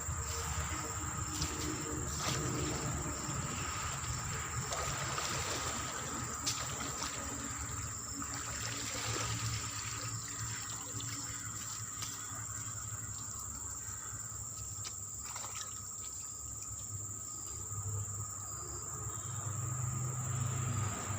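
Water trickling and splashing, over a steady high-pitched drone of insects, with a few faint clicks.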